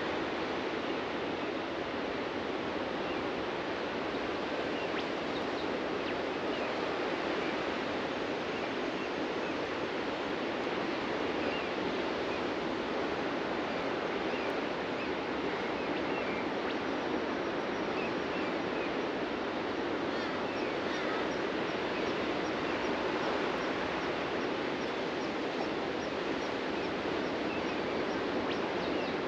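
Ocean surf washing onto a beach as a steady, unbroken rush, with small birds chirping faintly over it; past the halfway point a high call repeats evenly over and over.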